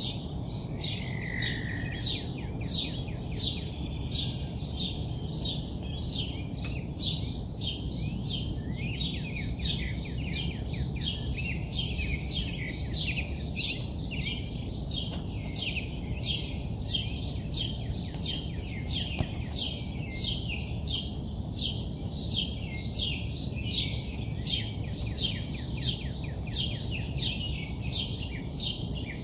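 A bird calling with short, sharp chirps repeated steadily about twice a second, over a steady low background rumble.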